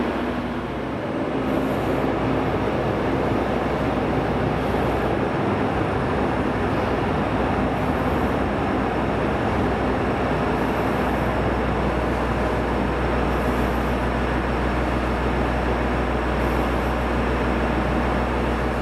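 Train running at a station platform: a steady, unbroken rumble of a moving train, with a low hum growing stronger about halfway through.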